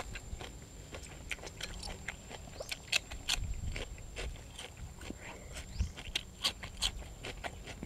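Close-mouthed eating: chewing with irregular crisp crunches and wet clicks, from fresh raw vegetables eaten with khanom jeen noodles in curry.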